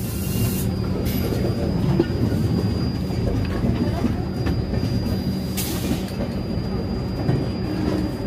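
Passenger train of blue coaches rolling slowly past on a nearby track: a steady rumble of wheels on rail with a thin, high wheel squeal that starts about half a second in and fades near the end.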